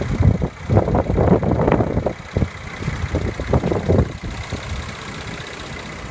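3.5-litre direct-injection V6 engine of a 2014 Mercedes-Benz E350 idling with a steady low rumble. Irregular louder sounds come over it in the first few seconds, then it settles to an even hum.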